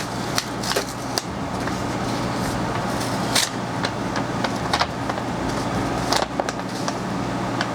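RV air conditioner running with a steady hum, with scattered sharp clicks over it.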